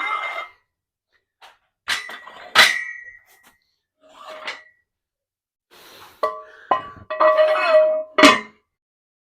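Metal clanks and ringing clinks of barbell weight plates knocking against each other and the bar, two sharp clanks a little under a second apart and then a run of ringing clinks near the end.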